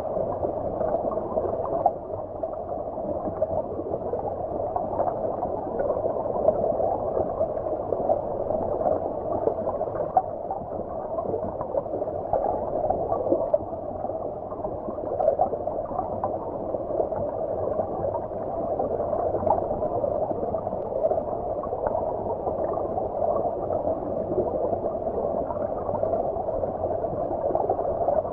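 Stream water heard as if from underwater: a steady, muffled bubbling and gurgling with many small pops, lacking any high treble.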